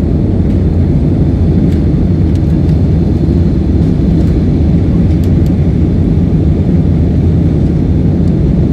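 Airliner taking off: a steady low rumble of engines and airflow that does not change, with a faint high whine above it.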